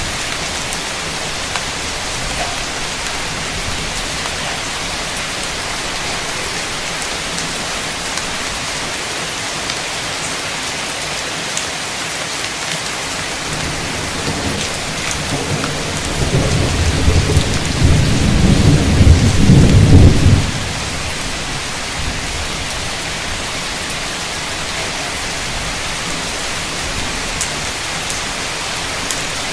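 Heavy rain falling steadily as a constant hiss, with a deep roll of thunder rumbling up from about halfway, loudest for several seconds, then cutting off quickly.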